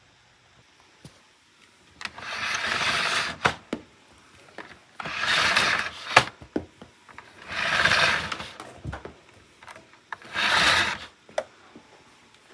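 Four rough brushing strokes, each about a second long and a couple of seconds apart, with light clicks and knocks in between.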